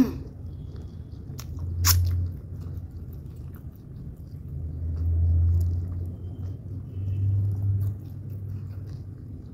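Close-miked chewing and biting of chicken wings and French fries, with a sharp click about two seconds in and deep, muffled thumps near the middle and later on.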